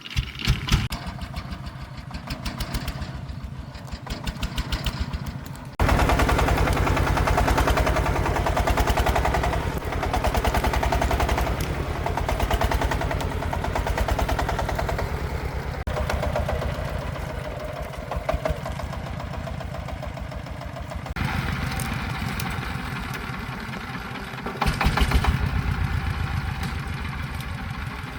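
Single-cylinder diesel engine of a công nông agricultural vehicle, chugging in quick even thumps. About six seconds in it jumps to a louder, harder run, eases off after about twenty seconds, then picks up again near the end.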